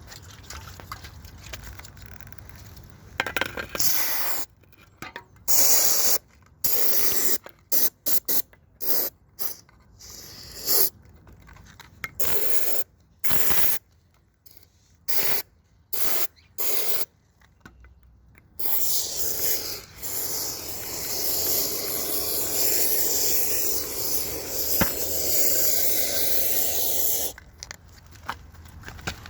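Pressurised spray hissing: many short bursts, then one long continuous spray of about nine seconds that stops near the end.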